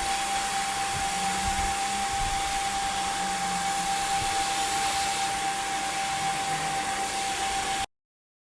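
A steady machine noise: an even rush with a constant high whine, which cuts off suddenly near the end.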